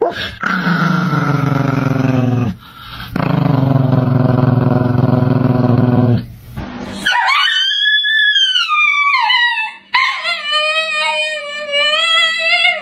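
A man howls at a chihuahua in two long, low notes; the chihuahua answers with one high howl that rises and falls. Then another dog howls with a wavering pitch.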